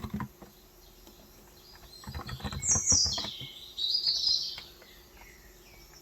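Birds chirping, with a loud run of high notes sweeping downward in the middle. A few keystrokes from a Cox Endeavour electrostatic-capacitive keyboard with 35 g switches land near the start and again around two to three seconds in.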